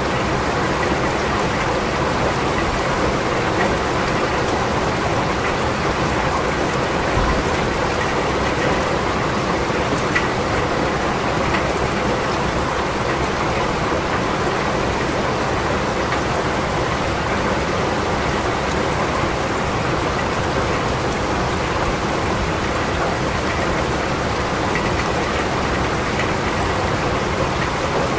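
Steady rain falling, an even hiss with a few single drops ticking out above it.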